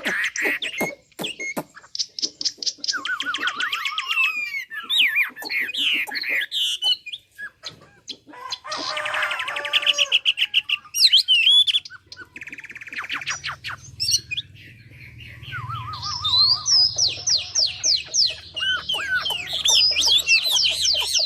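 A 'Mi' songbird singing a varied song of rapid trills, slurred whistles and quick rising notes in several phrases separated by short pauses. A few sharp clicks come in the first seconds, and a low rumble sits under the second half.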